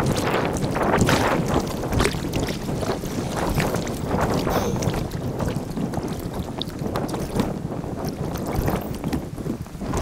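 Kayak paddling on a river, heard sped up in time-lapse: paddle strokes and splashing water against a steady rush of water, with wind buffeting the microphone.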